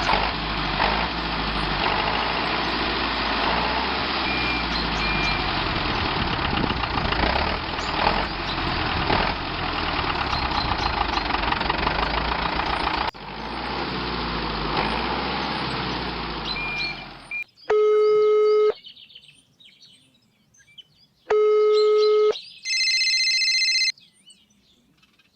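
A small motor runs steadily with a noisy, grinding rattle, broken by an abrupt cut about 13 seconds in. It stops near the end, followed by two short low electronic beeps and one higher beep.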